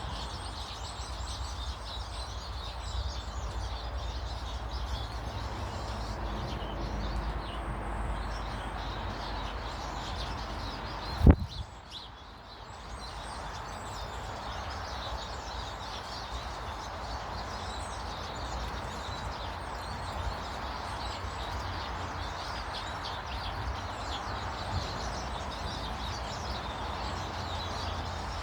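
Small garden birds chirping and twittering over a steady low rumble, with one loud, short, low thump about eleven seconds in.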